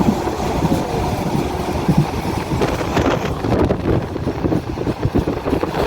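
Passenger train running on the rails: a steady rumble with irregular clacks and knocks from the wheels and carriages.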